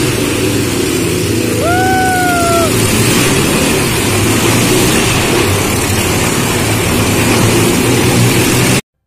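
Several motorcycle engines running loud and steady. A brief high whistle-like tone sounds about two seconds in. The sound cuts off suddenly near the end.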